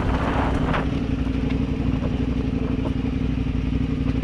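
Motorcycle engine idling steadily, with a brief hiss about half a second in.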